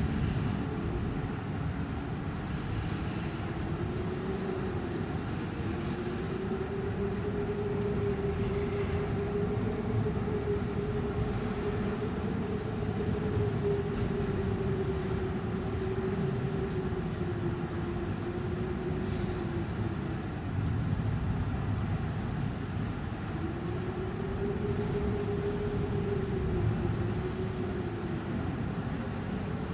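Storm wind rushing steadily, with a wavering howl that rises and falls in pitch over several seconds, fading out about two-thirds of the way through and returning briefly near the end.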